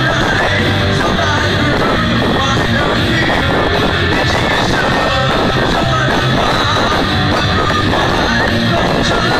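Loud rock music with electric guitars and singing, played without a break.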